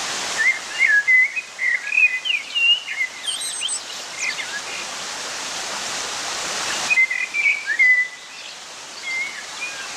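Small birds chirping and whistling in quick, short phrases over the steady rush of running water. The birdsong is busiest in the first half and comes back briefly about two-thirds of the way through.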